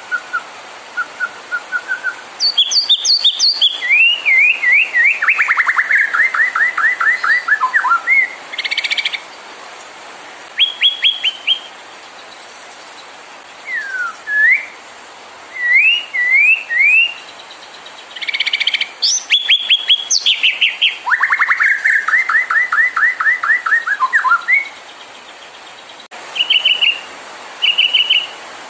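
White-rumped shama (murai batu) singing a varied song of clear whistles, quick upslurred notes and long, rapid trills that fall in pitch; a long trilled phrase comes twice. This is the loud, full song used as bait to provoke caged shamas into singing.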